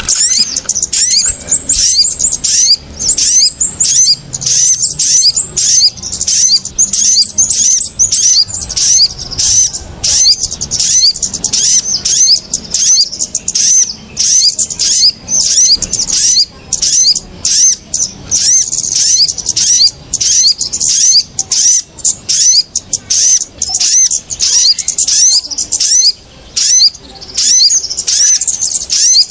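Bird-lure recording of kemade and sogon (sogok ontong) small birds calling noisily: an unbroken string of high, quick chirps, about three or four a second.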